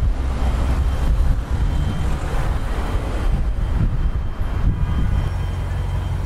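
Lexus RC F's 5.0-litre V8 and road noise heard from inside the cabin while driving, a steady low rumble that settles into an even hum about five seconds in.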